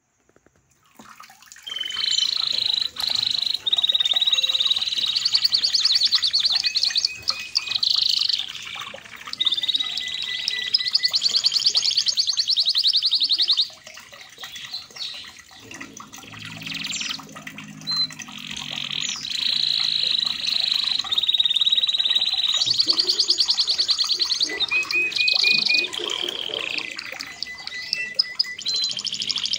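Red canary singing a long song of fast trills and rolls, high-pitched, with a short lull midway.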